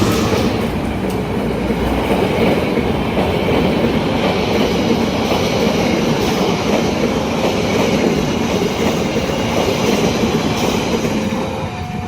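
Passenger train passing close by at a level crossing: a steady loud rumble and clatter of wheels over the rails. Near the end, the crossing's electronic warning bell comes through with its alternating two-note tone.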